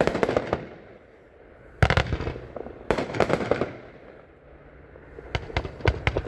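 A 36-shot consumer firework cake firing: clusters of sharp cracks and pops, four volleys in a few seconds.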